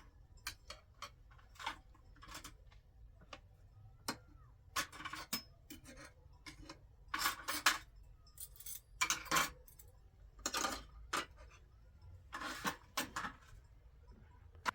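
Dishes and utensils being handled: irregular clinks and scrapes, with louder clusters of clatter in the second half.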